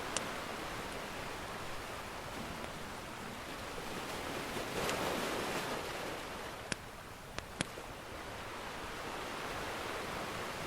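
Ocean surf washing steadily, one wave swelling to its loudest about five seconds in and then fading. A few sharp crackles from a wood fire pop over it, once near the start and three times around seven seconds in.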